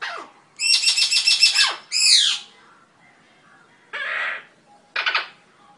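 Eclectus parrot calling: a rapid stuttering run of harsh notes lasting about a second, then a couple of falling squawks, and two shorter harsh squawks near the end.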